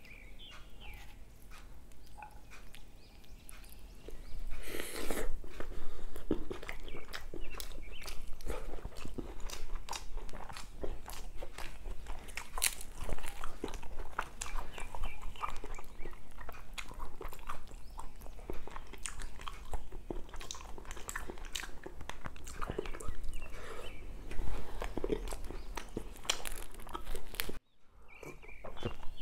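Close-miked chewing and wet mouth smacking of someone eating naan bread dipped in coconut curry, irregular clicks and crunches that start about four seconds in. They break off for a moment near the end.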